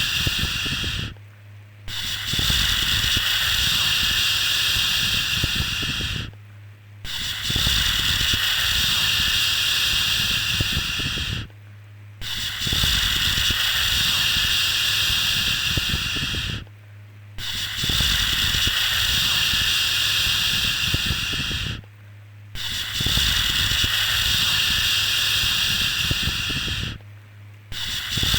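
A 'shhh' shushing sound for soothing a baby, repeated as long hisses of about four and a half seconds, each followed by a short pause: six in all. A low steady hum runs underneath without a break.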